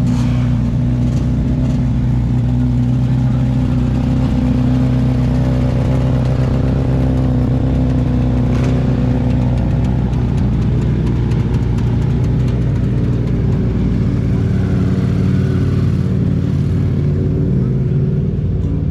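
A motorcycle engine idling steadily, with an even low note that holds its pitch.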